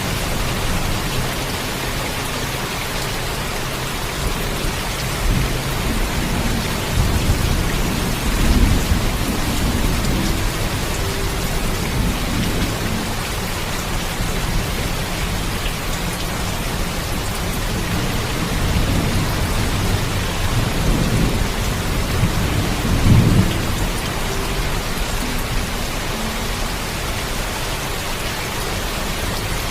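Steady heavy rain with low rolls of thunder. The thunder swells around eight seconds in and rumbles loudest about twenty-three seconds in.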